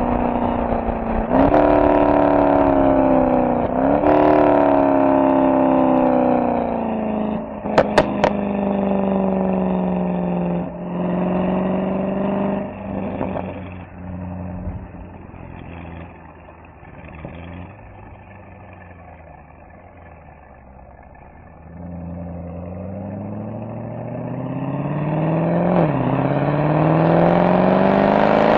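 Mercedes-AMG SL63's V8 exhaust. The car slows through a couple of gearshifts, then gives a few sharp cracks about eight seconds in. It settles to a quieter low burble for several seconds, then pulls away, the pitch climbing steadily through a gearchange near the end.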